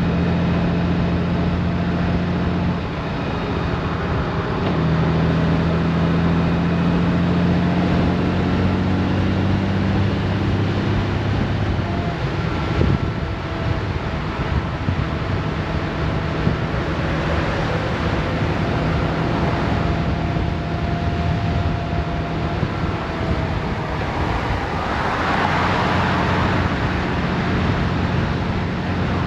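Honda Gold Wing motorcycle engine running at road speed under steady wind and road noise. The engine note dips about three seconds in and comes back higher a couple of seconds later.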